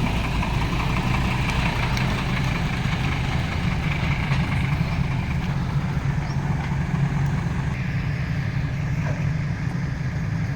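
Heavy diesel haul truck engine running steadily at low revs, a continuous low drone.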